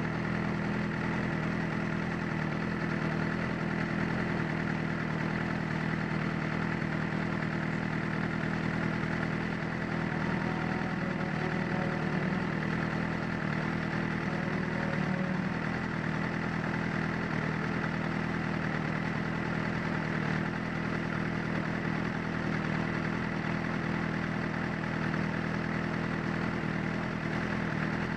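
Motorcycle engine running steadily at low revs, near idle, with no revving.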